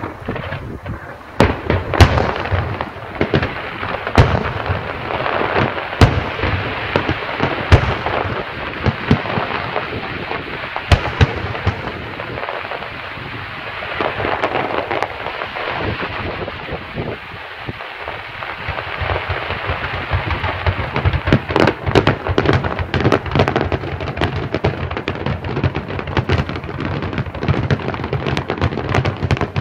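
Fireworks display: a continuous crackle of bursting shells punctuated by sharp bangs. The loudest bangs come in the first ten seconds, the firing eases off around the middle, and a dense run of bangs follows in the last third.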